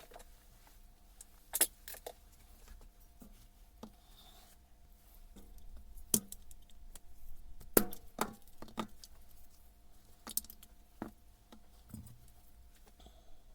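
Irregular clinks, taps and knocks of metal parts and hand tools being handled, with the loudest knocks about a second and a half, six and eight seconds in, over a faint steady hum.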